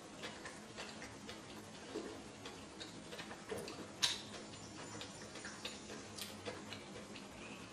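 A person chewing a mouthful of sushi with the mouth closed: faint, irregular wet clicks and smacks, with one sharper click about four seconds in.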